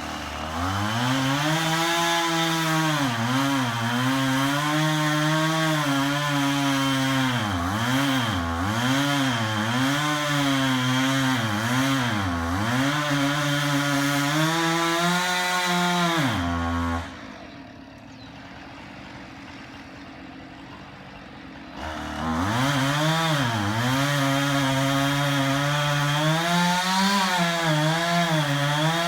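Husqvarna chainsaw running at high revs and cutting into a tree, its engine pitch dipping and recovering over and over as the chain bogs under load in the wood. A little past halfway the saw drops away for about five seconds, then comes back at full speed and carries on cutting.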